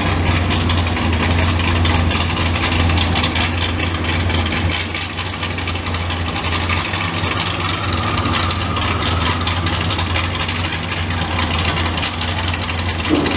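Racing powerboat's outboard engine running steadily at low speed with a dense, even rattle, and a second engine note faintly rising about two-thirds of the way through.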